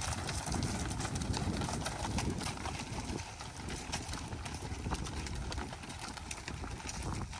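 A herd of cattle walking up, their hooves making repeated knocks and clicks on the ground, over a low rumble.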